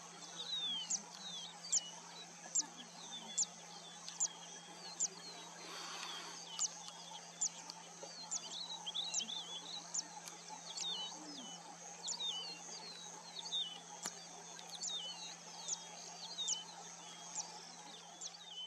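Birds calling: one bird repeats a short, high, falling note a little more often than once a second, with other chirps in between. Behind them run a steady high hiss and a low steady hum.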